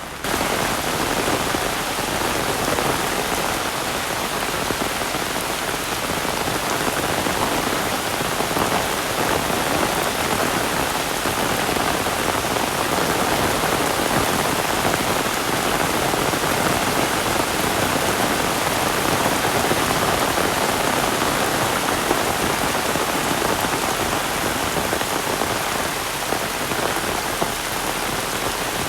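Heavy rain falling steadily: a dense, even hiss of downpour with no letup.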